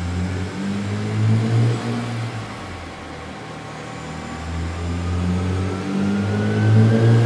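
BMW E46 M3's S54 inline-six, breathing through an aftermarket X-pipe exhaust, running at low to moderate revs on a chassis dyno. The note swells twice, about a second in and again near the end. A faint whine climbs slowly in pitch over the second half.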